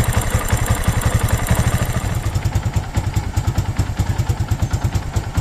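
Yamaha FZ motorcycle's single-cylinder engine idling with a rapid, even beat and a clattery rough engine noise, the abnormal noise the mechanic later puts down to a bad bearing.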